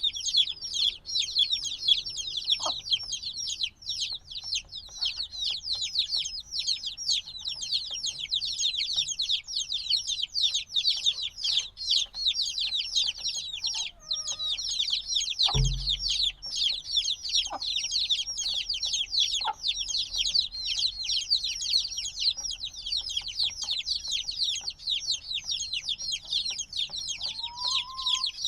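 A brood of newly hatched chicks peeping loudly and without pause, many overlapping high, falling chirps. A single dull knock sounds about halfway through.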